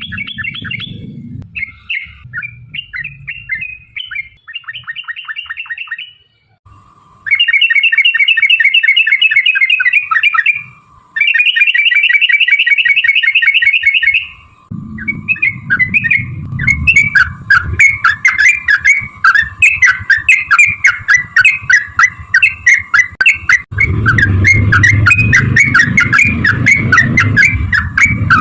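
Yellow-vented bulbul (trucuk) calling: rapid chattering notes and two long, fast bubbling trills (the 'ropel' rattle) partway through, then quick repeated calls. A low rumble runs under the second half.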